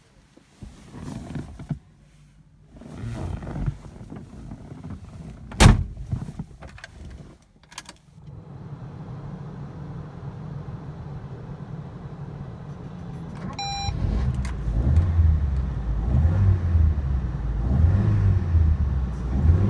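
Handling noises and a single sharp thunk about a third of the way in, then a car running with a steady low rumble that grows louder near the end. A short electronic beep sounds as the rumble swells.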